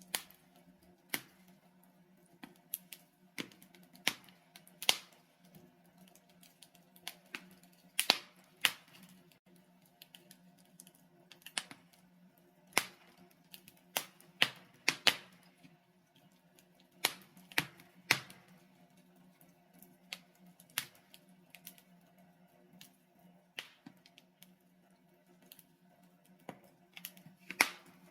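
Wood logs burning in a fireplace, crackling with irregular sharp pops and snaps, about one or two a second, over a faint steady low hum.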